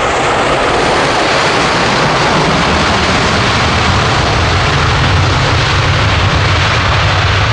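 Twin turbofan engines of a Cessna Citation business jet running at takeoff power: a loud, steady jet roar, with a low rumble that builds about three seconds in.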